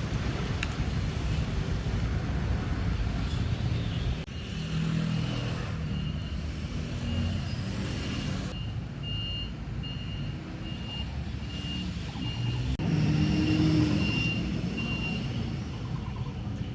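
A road vehicle's engine running, with a high electronic beep repeating a little under twice a second through the middle of the stretch.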